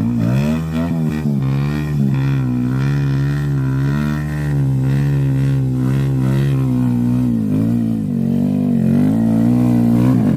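Honda Grom's single-cylinder engine running at steady, fairly high revs under way, its pitch wavering slightly up and down as the throttle shifts. It starts and stops abruptly.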